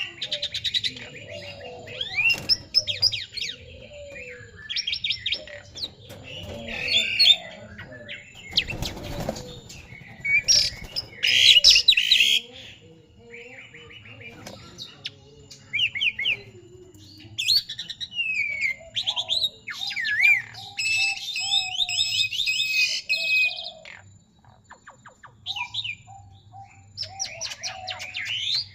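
Asian pied starling and black-winged myna calling: repeated bursts of sharp sliding whistles, squeaky notes and chattering phrases. A brief noisy burst stands out about nine seconds in.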